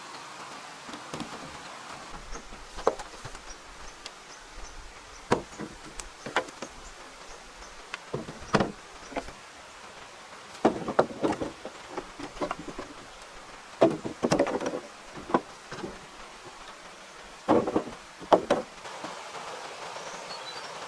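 Irregular knocks and clunks of wood being handled and struck, some in quick clusters, over a steady background hiss.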